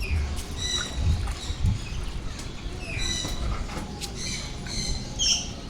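High-pitched bird chirps, short and repeated, over a steady low rumble.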